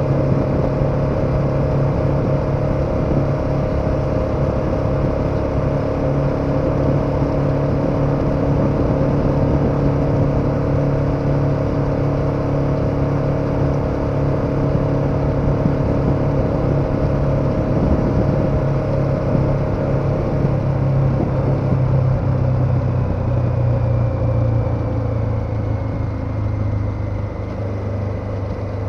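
KTM 1290 Super Adventure's V-twin engine running under steady throttle at cruising speed, with wind and road noise. About two-thirds of the way through the engine note falls slightly and the sound eases off as the bike slows.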